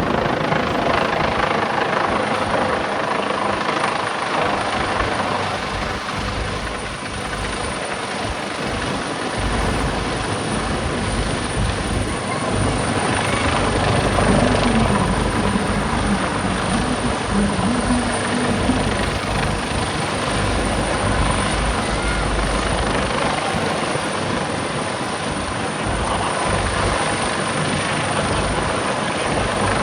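Aircraft flying over at an air display: a steady, loud rushing noise with a deep rumble underneath.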